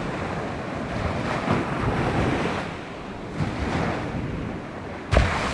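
Sea waves breaking and washing on the shore, rising and falling, with wind buffeting the microphone. There is a sharp thump on the microphone about five seconds in.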